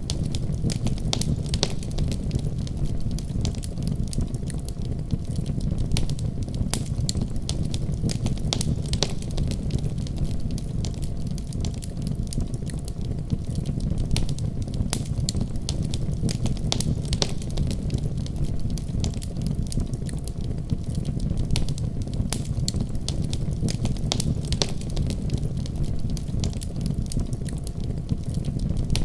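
Wood fire burning: a steady low rumble of flames under frequent, irregular sharp crackles and pops.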